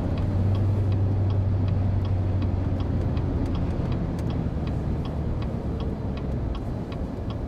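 A car's turn-signal indicator ticking evenly, about three ticks a second, over the steady hum of the engine and tyres heard from inside the cabin.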